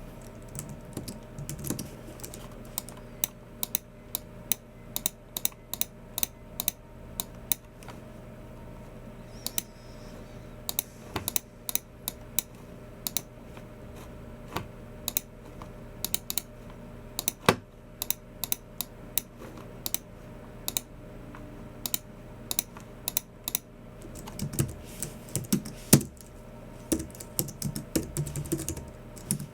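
Typing on a Logitech MX Keys Mini low-profile keyboard: quick, irregular keystrokes in uneven runs with short pauses. Two strokes, one a little past the middle and one near the end, are noticeably louder than the rest.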